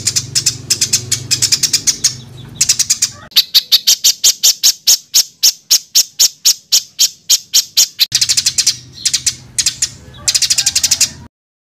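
Songbird singing rapid-fire 'tembakan' phrases, dense, harsh repeated notes. Tight clusters give way to an even run of about five sharp notes a second, then dense bursts again, before it cuts off near the end.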